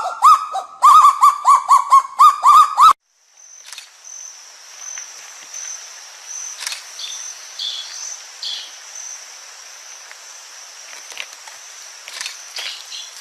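Kagu calling: a loud, rapid series of barking calls, each rising and falling in pitch, about three a second. This cuts off suddenly about three seconds in. Quiet forest ambience follows, with a steady high whine, faint scattered chirps and a few clicks.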